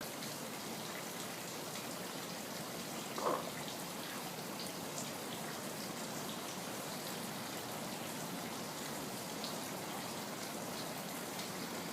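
Faint wet clicks of a dog licking and kissing over a steady hiss, with one short belch from the dog about three seconds in.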